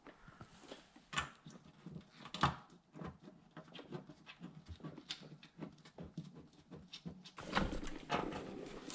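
Irregular light clicks and knocks of hand work on the parts, with a louder stretch of scraping or rustling noise near the end.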